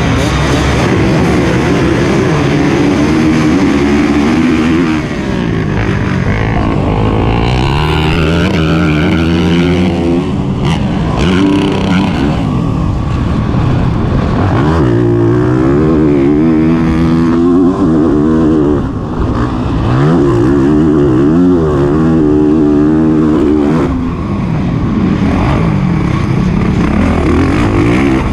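Honda CRF450RX's single-cylinder four-stroke engine at race pace on a motocross track. It revs up and backs off over and over, its pitch climbing and falling, and the throttle shuts briefly a few times.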